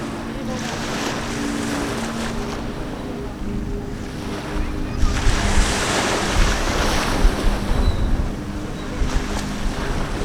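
Sea waves washing, with wind buffeting the microphone and a steady low hum underneath; a louder rush of surf about halfway through.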